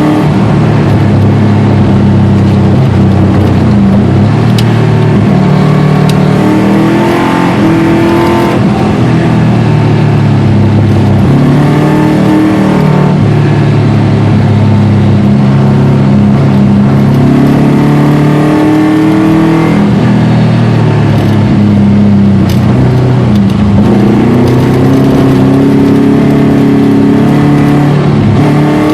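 Subaru Impreza RS rally car's flat-four engine being driven hard, its pitch climbing and dropping again every few seconds as it revs up and backs off.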